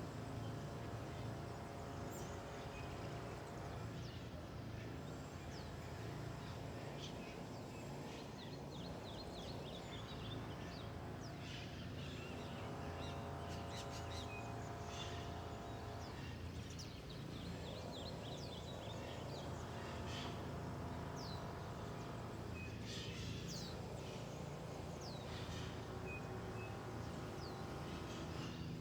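Wild birds chirping and calling at intervals over a steady low background rumble, with two rapid trilling runs of chirps partway through.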